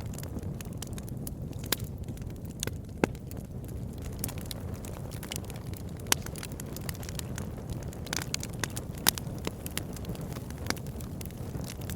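Campfire burning with a steady low rumble of flames and irregular sharp crackles and pops from the burning wood.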